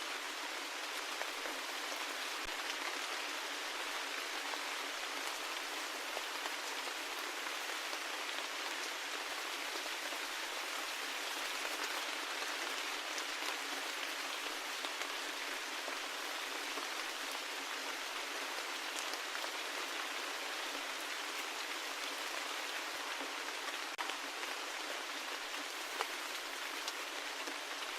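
Steady rain falling, an even hiss with no low rumble, dotted with scattered individual drops ticking.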